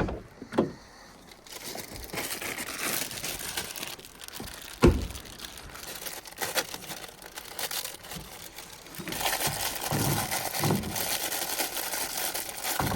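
A bag rustling and crinkling as potatoes are rummaged for and taken out, with one sharp knock about five seconds in. The rustling grows louder near the end, with a few dull bumps as things are handled.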